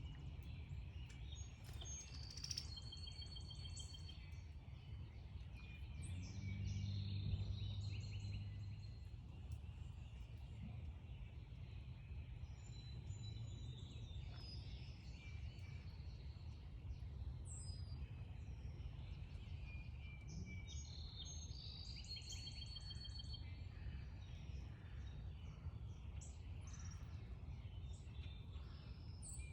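Several backyard songbirds chirping and calling, with short whistled notes and a couple of rapid trills, over a steady low background rumble. A low hum swells for a few seconds about a quarter of the way in.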